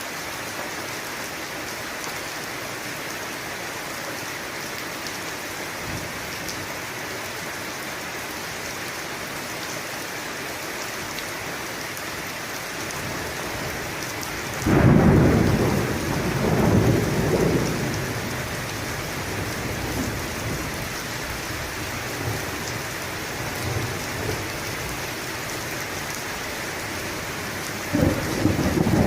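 Steady rain falling, with a sudden clap of thunder about halfway through that rolls and rumbles on for a few seconds, and another thunderclap breaking near the end.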